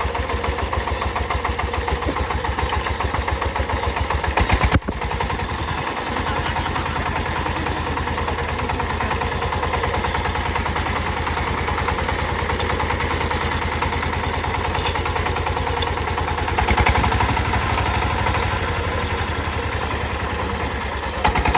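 Diesel engine of a Sifang power tiller running with a steady, even chug. It gets briefly louder just before five seconds in, then breaks off sharply, and swells a little again around seventeen seconds.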